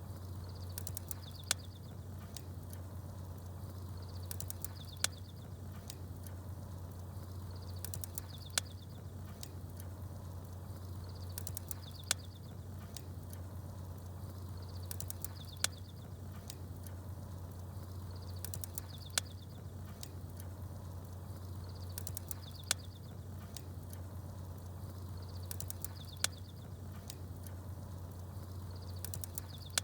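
Campfire crackling, with a sharp pop about every three and a half seconds over a steady low hum. Small birds chirp in short high bursts just before each pop, and the whole pattern repeats at an even spacing.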